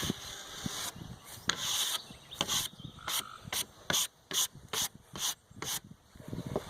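Wire brush scraping across the dirt-clogged coil of a window air conditioner, knocking out packed dirt: a few irregular strokes, then quick regular back-and-forth strokes, about two or three a second, from about three seconds in.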